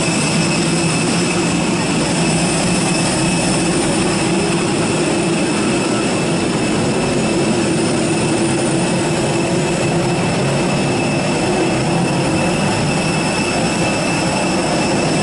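Steady aircraft jet turbine noise: a constant high whine over a low rumble.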